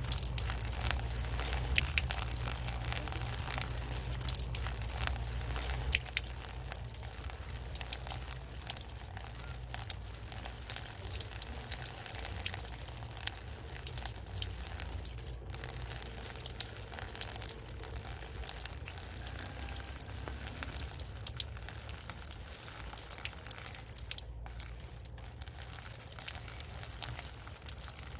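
Rain falling, a dense patter of drops striking close by, with a low rumble underneath that drops back about six seconds in.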